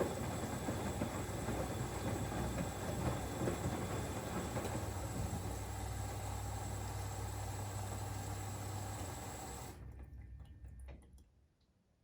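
Siemens Extraklasse XLS 140 A washing machine taking in water through its inlet valve, a steady rush of water with a low mains hum. The hum stops about nine seconds in and the water cuts off abruptly about a second later, followed by a few faint clicks.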